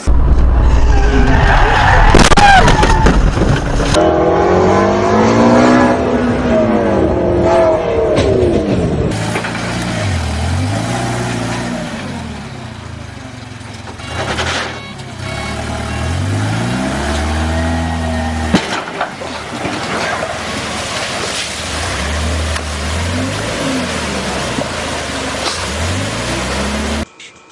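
Vehicle engines revving up and falling back again and again, in several short segments that change abruptly.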